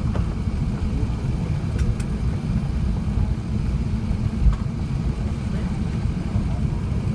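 Steady low rumble of cabin noise inside an Airbus A380 on landing, with a single thump about four and a half seconds in.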